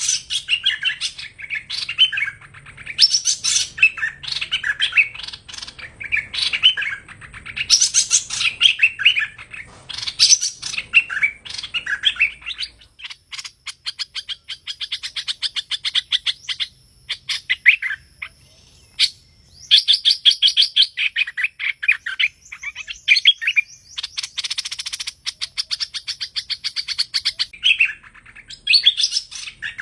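Hoành hoạch bird singing: loud, varied chattering phrases for roughly the first half, then long, fast rattling trills broken by short pauses.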